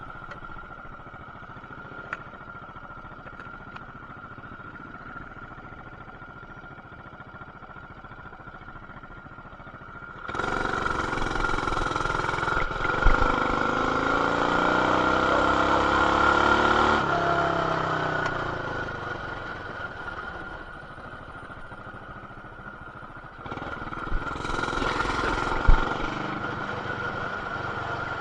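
Coleman BT200X mini bike's single-cylinder engine, with an aftermarket intake, header and RLV exhaust, runs low for about ten seconds. It is then opened up, its pitch climbing for several seconds before easing off, and it takes a second burst of throttle near the end. A steady high whine sits under it, muffled through a plastic camera housing.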